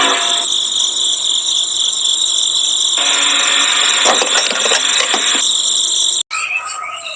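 A steady, loud, high-pitched whine that cuts off suddenly about six seconds in, followed by scattered clicks and rattles.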